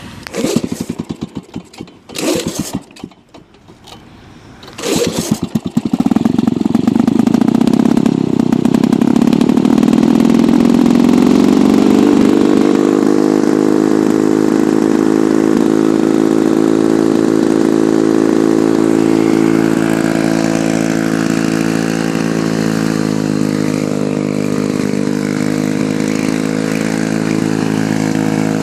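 Lawn-Boy 4502 mower's F-Series two-stroke engine being pull-started warm: three short bursts on the pulls, catching on the third about five seconds in, then revving up and running steadily. It runs extremely loud because the muffler has a hole in it.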